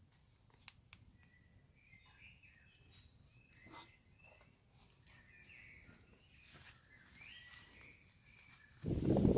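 Faint bird chirps with a few scattered clicks. Near the end a sudden loud rushing noise cuts in, with a steady high whine above it.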